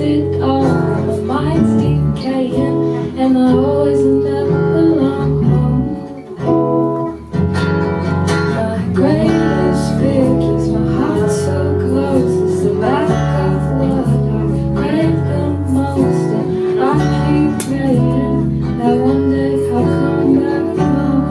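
Live music led by strummed and plucked acoustic guitar, with a low bass line underneath, dropping briefly about six seconds in.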